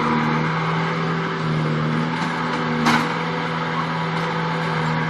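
Bobcat T250 tracked skid steer's diesel engine running steadily while it works with its log grapple, with one sharp knock about three seconds in.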